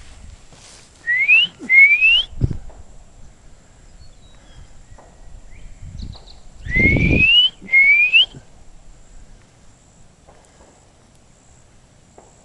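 A person whistling a two-note imitation of a bird's call, each note a clean upward-sliding whistle, given twice about five seconds apart.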